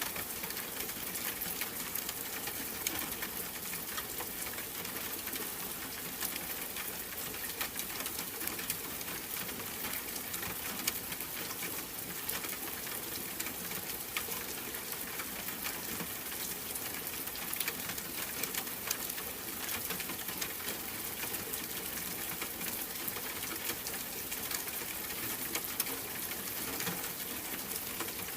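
Steady rain falling: a dense, even patter of many small drops, with no let-up.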